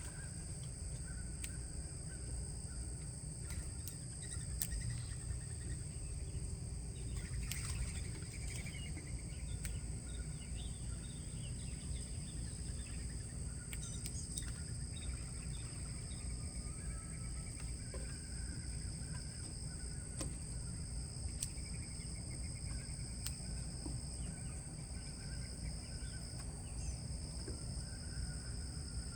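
Outdoor ambience with scattered short bird chirps and calls over a steady high insect drone and a low rumble of background noise, with a few sharp clicks now and then.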